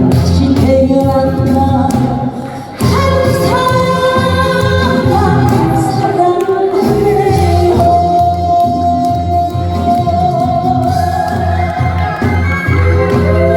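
A woman singing a Korean trot song live over loud amplified band accompaniment, holding one long note in the middle.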